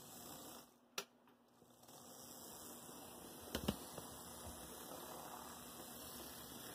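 Faint steady hum of rebuilt Athearn Blue Box HO-scale locomotive motors running two Trainmasters together on the track, with a sharp click about a second in and a couple of clicks around three and a half seconds in.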